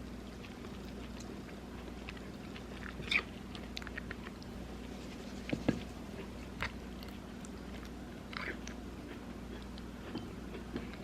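A person chewing and biting food, with scattered short crunches and light clicks over a steady low hum.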